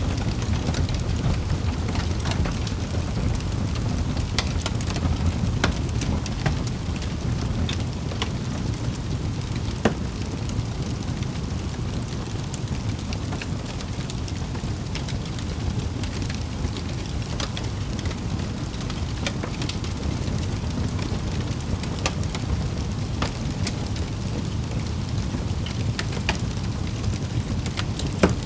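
Wood fire burning in a fireplace: a steady low rumble with scattered sharp crackles and pops, one louder pop about ten seconds in and another near the end.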